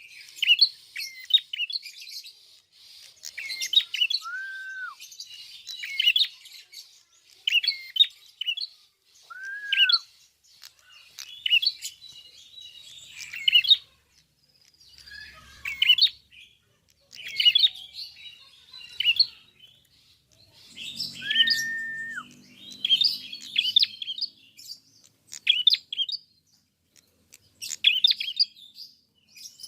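A prenjak kepala merah (klawu) singing: short, rapid, high chattering phrases repeated every second or two. Three times, a lower, drawn-out whistle that drops at the end cuts in.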